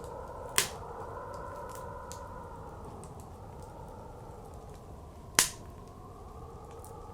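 Wood fire crackling with two loud sharp pops, about five seconds apart, and faint scattered ticks, over blizzard wind blowing steadily with a slow rise and fall in pitch.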